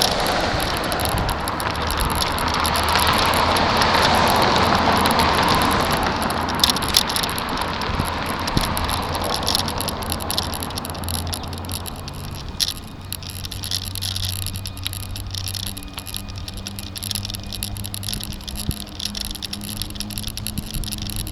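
Riding noise from a bicycle-mounted camera: wind rush and rattling over the road surface, loudest in the first few seconds and dying down after about ten seconds into a quieter hum with scattered small clicks.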